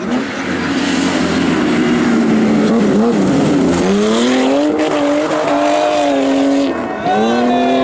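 BMW 3 Series car drifting with the engine held at high revs over the noise of sliding tyres. The revs sag a little about halfway through, then drop sharply and climb again near the end.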